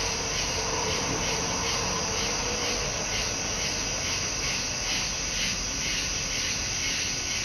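Night insects chirping in a steady chorus that pulses about two to three times a second, with the faint tail of a distant train horn fading out in the first few seconds.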